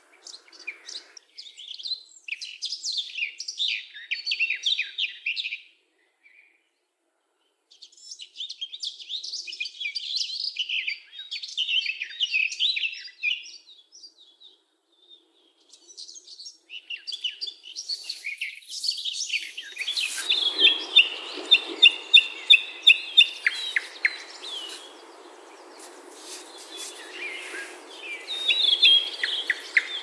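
Songbirds singing in bursts of rapid chirping phrases, with near-silent gaps about six and fifteen seconds in. From about twenty seconds in, a steady hiss-like background sits under denser song.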